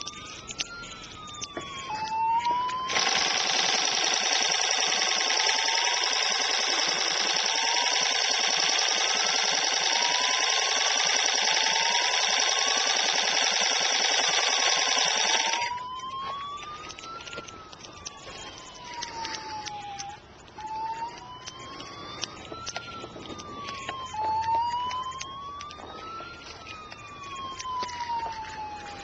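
Emergency siren wailing, its pitch sweeping up and down about every three seconds. For the first half a much louder, harsh steady sound covers it, and then stops abruptly.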